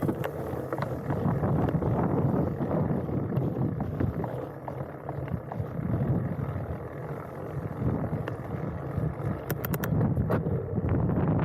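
Mountain bike rolling down a dirt trail, picked up by a handlebar-mounted camera: steady tyre rumble with sharp rattles and clicks from the bike over bumps, and some wind on the microphone.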